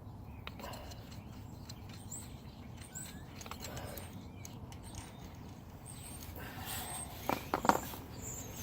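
Small clicks and squeaks of hand tools working loose the bolt and filter on a Blizzard plow's hydraulic reservoir, ending in a short clatter with a couple of sharp metal clinks about seven seconds in.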